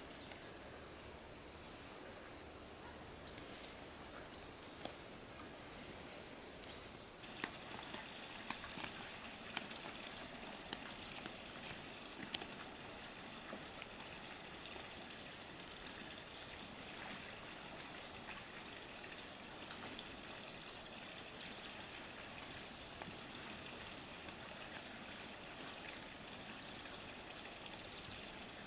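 Steady, high-pitched insect chorus of crickets or cicadas that cuts off abruptly about seven seconds in. A fainter high insect hum follows, with a few light clicks and then an even soft hiss.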